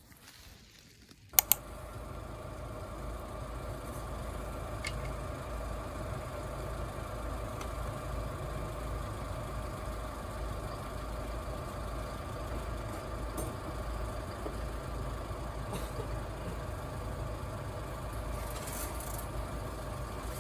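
Two sharp clicks about a second and a half in, then a vehicle running with a steady low rumble and a faint steady hum.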